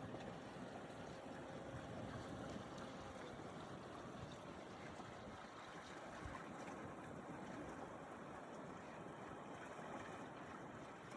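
Faint, steady outdoor background noise with no distinct events.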